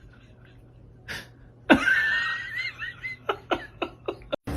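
A person laughing: a quick breath, then a long high-pitched laugh followed by several short bursts of laughter.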